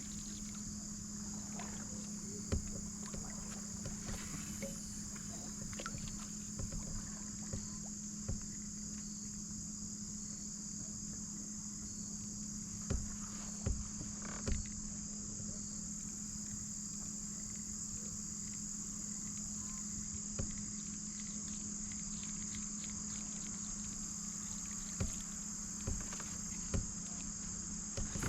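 Steady, high-pitched chorus of insects such as crickets, with a scattering of short knocks and taps from the kayak and fishing gear.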